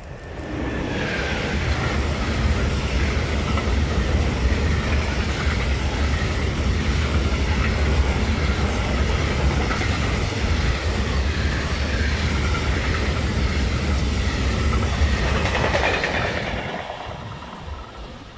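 Electric freight train passing close by, an electric locomotive followed by a long string of silo wagons. Steady, loud rumble of wheels on rail with clickety-clack over the rail joints. It comes in suddenly about half a second in and fades away over the last couple of seconds as the tail goes by.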